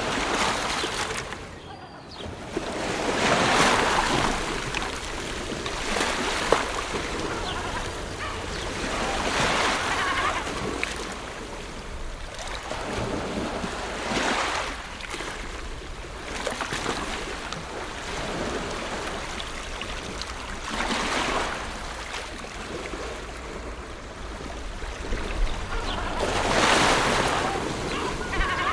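Ocean waves washing onto a shore, one surge after another every few seconds, over a steady low rumble of surf.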